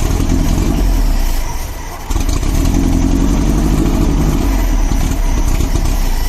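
Volkswagen Beetle's air-cooled flat-four engine running loud under throttle, easing off briefly about two seconds in, then held up again until it drops back near the end.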